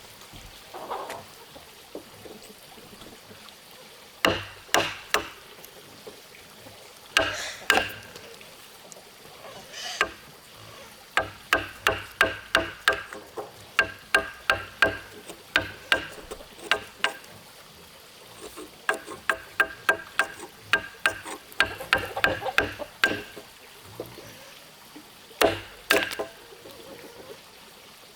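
Repeated blows of a hand tool striking wood, with a metallic ring. A few single heavy strikes are followed by long runs of quicker, lighter taps at about three a second.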